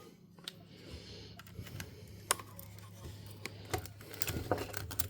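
Scattered light clicks and taps of small plastic and metal parts being handled while a Sony MZ-R3 MiniDisc recorder is worked on, with a faint steady low hum underneath. The clicks come more often in the second half.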